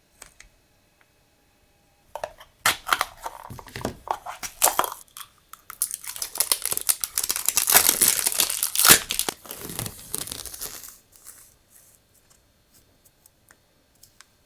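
Crinkly packaging being torn open and crumpled by hand, a dense run of crackles starting about two seconds in, loudest in the middle and dying away near the end.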